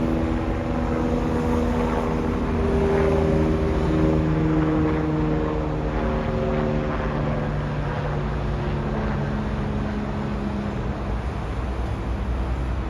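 Electric train at the platform, its traction motors giving a whine of several tones over a low rumble, slowly falling in pitch.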